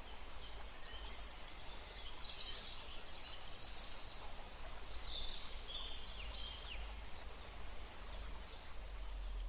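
Woodland songbirds singing a string of short, high chirping phrases, several of them falling in pitch, over a steady low rumble and hiss of background noise.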